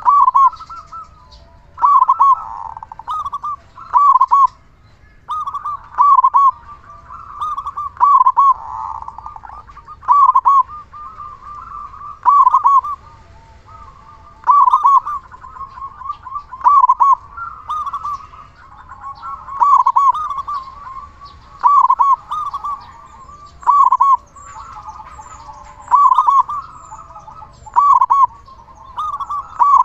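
Male zebra dove (perkutut) singing loudly: a staccato cooing phrase repeated about every two seconds. It is the kind of gacor song used as a lure to set other zebra doves singing.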